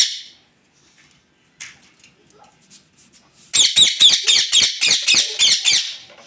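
Parrot squawking: one call cut off at the very start, then a fast run of harsh, high repeated calls, about four a second, lasting over two seconds in the second half.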